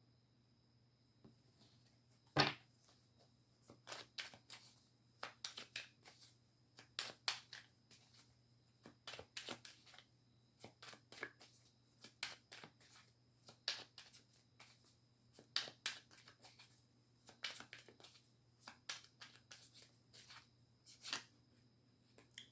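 Faint, irregular slaps and rustles of a deck of reading cards being shuffled by hand, with one louder knock about two and a half seconds in.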